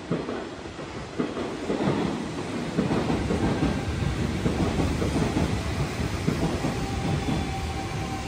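Electric train running close by on the Hanshin line. Rumble and wheel clatter on the rails rise suddenly and stay loud, and a steady whine comes in near the end.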